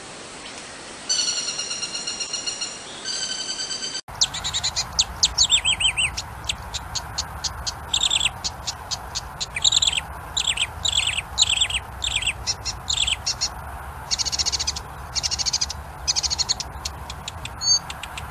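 Songbirds singing: first two steady, held whistled notes, then, after an abrupt cut about four seconds in, a fast, varied song of rapid down-slurred notes and trills.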